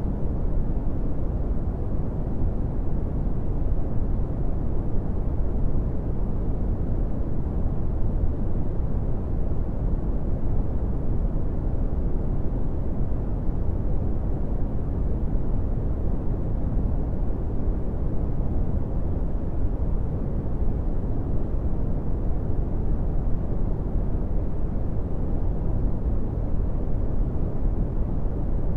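Synthetic brown noise: a steady, even, deep rumbling hiss weighted toward the low end, with no changes.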